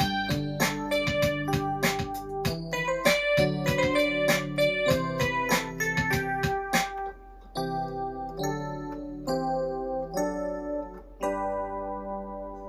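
Electronic keyboard playing with an electric piano voice (Galaxia EP) over the keyboard's built-in Funk Pop drum rhythm. About seven seconds in, the rhythm drops out and a few held chords follow, the last one fading away as the piece ends.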